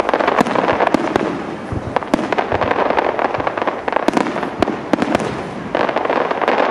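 Aerial firework shells bursting in quick succession: a rapid, irregular string of sharp bangs with crackling between them.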